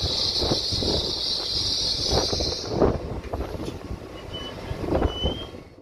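Passenger train running slowly along a station platform, its wheels knocking over the rail joints about twice a second, with a steady high hiss that stops about halfway through. Near the end come two short high wheel squeals.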